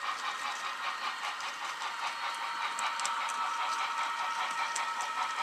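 HO scale model train running along the layout's track: a steady whine from the locomotive's electric motor with the rolling rattle of wheels on the rails and a few light clicks.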